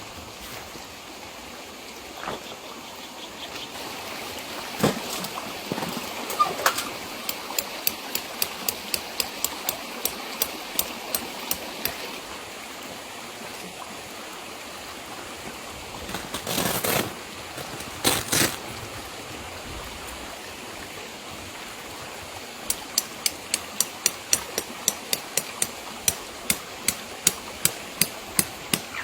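Steady hiss of rain. Two runs of quick, even taps sound over it at about two or three a second, and two short rustling bursts come in the middle.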